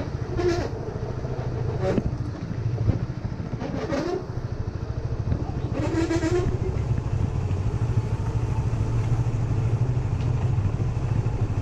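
Honda Winner 150 single-cylinder motorcycle engine running steadily while riding, getting a little louder about five seconds in. A few short higher-pitched sounds cut in briefly, at the start and again around four and six seconds in.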